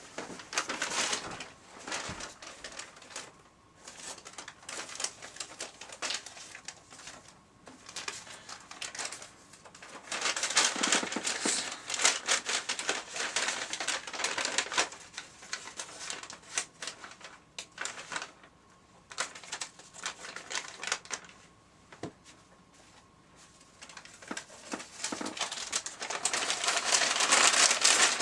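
Paper bag puppets being handled: stiff paper bags rustling and crinkling in irregular bursts of crackles, busiest in the middle and toward the end.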